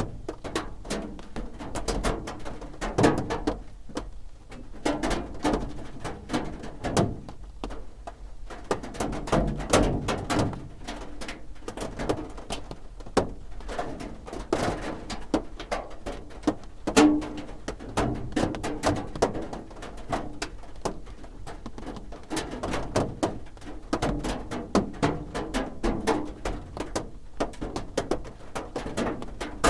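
Rain drumming on a roof: a dense, irregular patter of drops striking, with heavier low thuds among lighter ticks.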